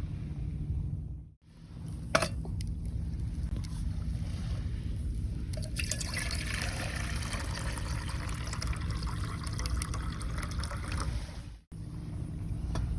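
Water trickling and pouring in a thin stream over a low, steady rumble, with a single sharp click about two seconds in.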